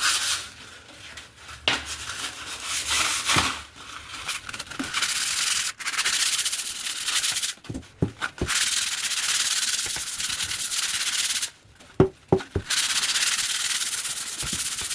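Sandpaper rubbing over rust-treated steel, a scratchy hiss in long stretches broken by short pauses and a few light knocks. The sanding takes off the whitish film left by the rust remover, preparing the metal for paint.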